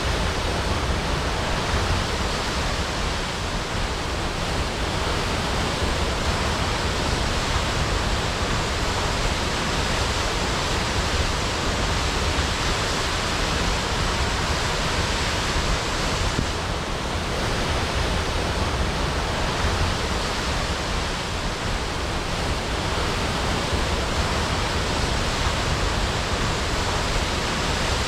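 Waterfall crashing, a steady rush of falling water with a deep low rumble underneath.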